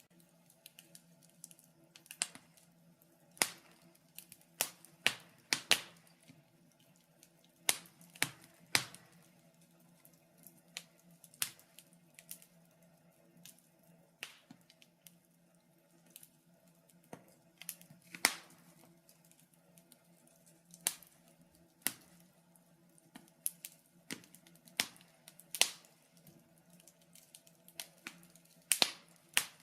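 Wood fire crackling in a fireplace: irregular sharp snaps and pops, some loud, some faint, over a faint steady hum.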